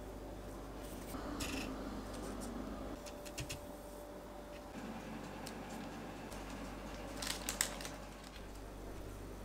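A few short clicks and scrapes of hands working with kitchen things, in small clusters about a second in, around three and a half seconds and, sharpest, around seven and a half seconds, over a faint steady hum.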